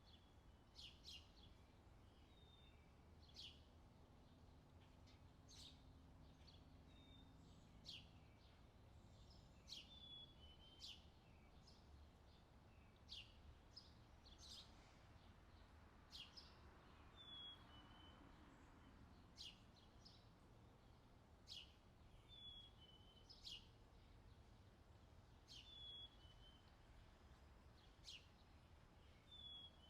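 Faint forest birdsong: short, high chirps repeating every second or two, some ending in a brief falling note, over a low steady background hum.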